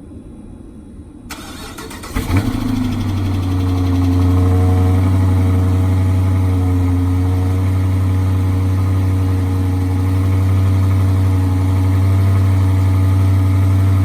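2016 Dodge Charger R/T's 5.7-litre Hemi V8 cold-starting on its stock exhaust: the starter cranks and the engine catches about two seconds in with a short flare of revs, then settles into a steady idle.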